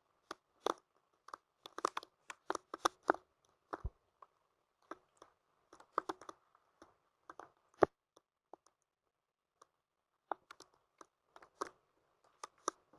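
Scattered raindrops tapping on a hard surface: irregular sharp ticks, several a second in clusters, thinning out for a couple of seconds about two-thirds of the way through.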